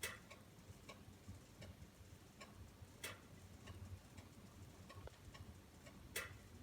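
Wood fire crackling in a fireplace: faint scattered ticks with three louder sharp pops, one at the start, one about three seconds in and one near the end.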